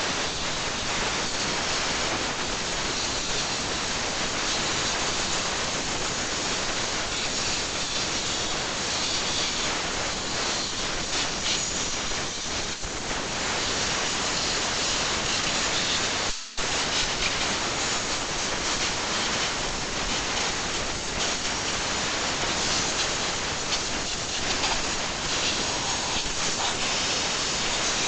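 Compressed-air blow gun blasting water out of a freshly washed engine bay, a steady loud hiss that stops for a moment about halfway through and resumes.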